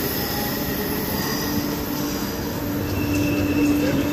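A passenger train running through the station with a steady rumble of wheels on rails. A humming tone comes in about two-thirds of the way through.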